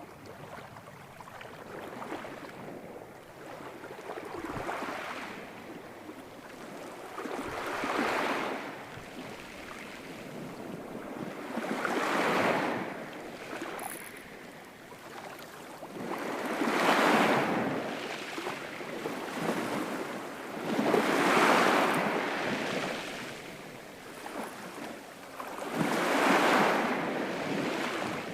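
Ocean waves breaking and washing in, one about every four to five seconds, the later waves louder.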